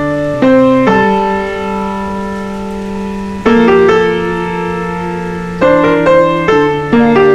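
Background piano music: slow chords struck and left to ring, with a long held chord partway through.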